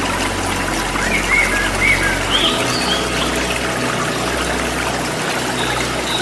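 Steady rush of a waterfall, with a few short bird chirps about one to three seconds in.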